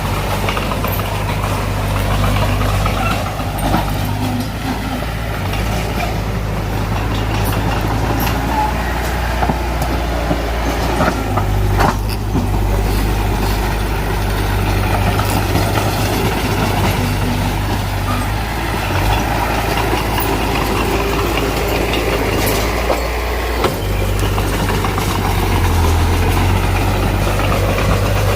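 Heavy diesel engine of earthmoving machinery running steadily under load, with a few sharp metallic clanks, one about twelve seconds in and another near twenty-three seconds.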